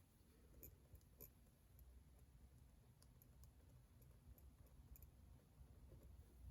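Near silence with faint, irregular light clicks and taps from someone working at a desk, over a low steady hum.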